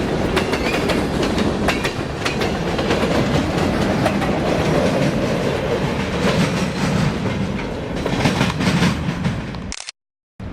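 Train rolling past close by: a steady rumble of wheels on rail with rapid clicks over the rail joints. It cuts off suddenly near the end.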